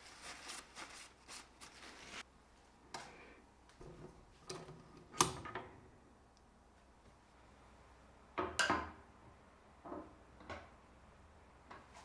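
Scattered light knocks and clicks of objects being set down and handled, with no machine running; the sharpest knock is about five seconds in, and a short cluster comes near nine seconds.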